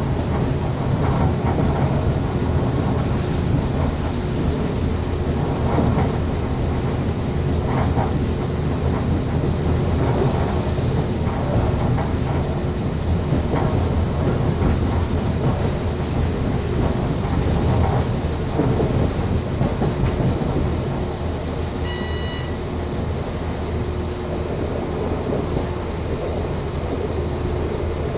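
Train running along the track, heard from a window of the moving carriage: a steady rumble and rattle of the wheels on the rails. A short high beep about 22 seconds in.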